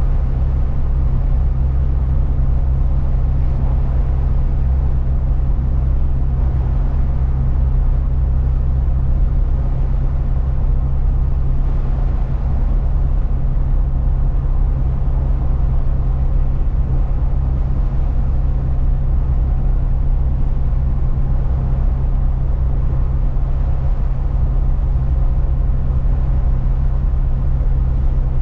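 Truck driving along at a steady pace: a constant low drone of engine and road noise, with no changes or sudden sounds.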